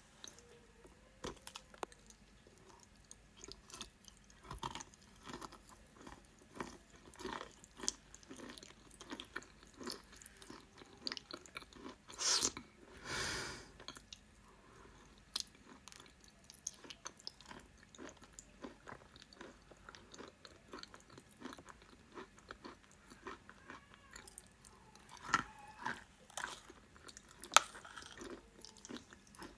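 A person chewing and crunching chalk close to the microphone: a steady run of small crunches, with a longer, louder crunch about twelve seconds in and a sharp bite near the end.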